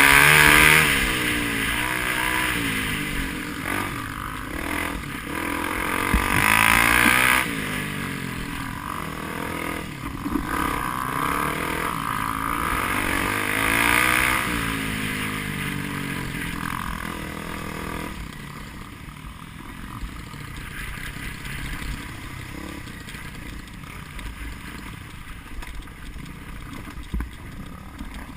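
Off-road enduro motorcycle engine revving in surges that rise and fall in pitch, loudest near the start, about six seconds in and about fourteen seconds in, then running quieter and lower for the last ten seconds.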